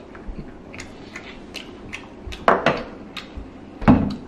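Close-up eating sounds: a mouthful of hot, sticky rice cake being chewed, with many small wet mouth clicks. Two louder knocks of tableware against the table come about two and a half and four seconds in.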